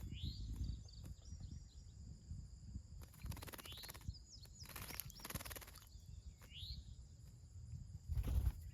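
Small backyard birds chirping with short rising calls, with splashing from a birdbath about three and five seconds in. A steady high buzz and a low outdoor rumble run underneath.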